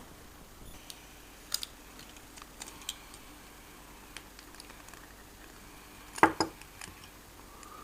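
Scattered light clicks and taps of small hard parts being handled, with a louder double knock about six seconds in.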